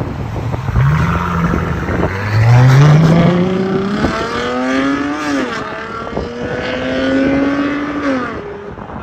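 Dodge Challenger V6 through Big Boz mufflers with the mid resonators deleted, revved from idle. There is a short blip about a second in, then a longer rise to the loudest point around three seconds, a held rev that drops off near five seconds, and another held rev that falls back near the end.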